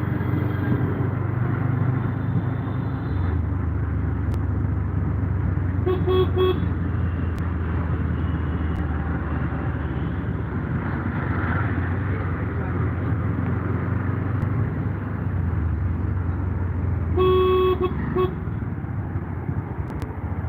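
A vehicle running steadily in road traffic, with a vehicle horn honking: a short double beep about six seconds in, then a longer honk and a quick second one near the end.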